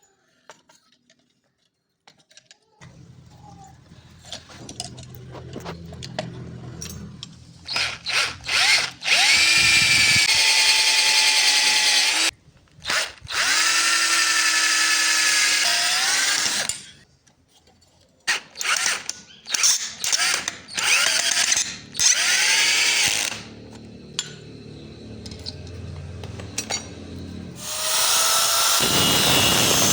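A handheld electric power tool working a steel axe head. It runs in repeated loud bursts of several seconds, with a lower hum between them, and its whine drops in pitch as some bursts end.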